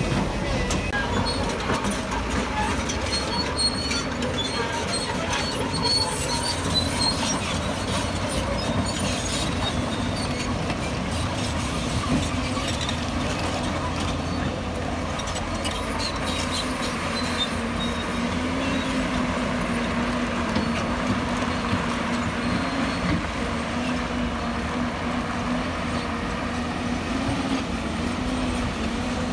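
Tracked heavy construction machine working: diesel engine running steadily, with the metallic clatter and squeal of crawler tracks. A steady low hum holds through the second half.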